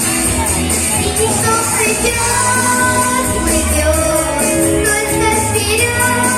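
A girl singing a children's song over instrumental accompaniment with a steady beat.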